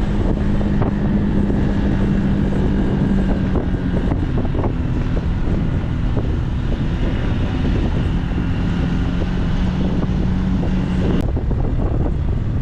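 Motorbike engine running at a steady cruising speed while riding, under loud wind buffeting on the microphone.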